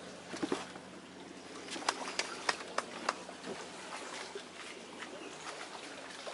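Sharp clicks: a pair about half a second in, then five evenly spaced ones about a third of a second apart, over a low steady background.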